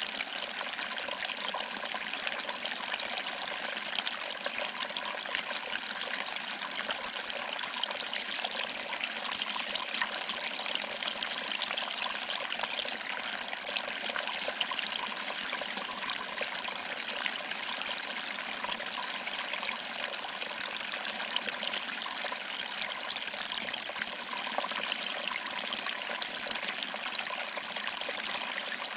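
Small waterfall: water trickling over rocks and splashing into a pool below, a steady, even splashing with more hiss than rumble.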